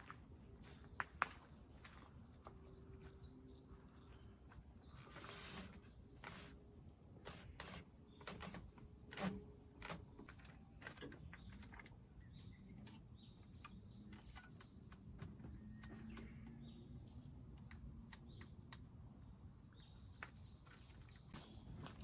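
Steady high-pitched chorus of insects, with scattered small clicks and knocks, two sharp clicks about a second in.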